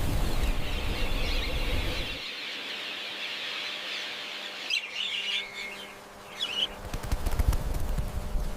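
Budgerigars chattering in a continuous high twitter, with a few sharper chirps about five and six and a half seconds in. A low rumble sits under the chatter at the start and returns near the end.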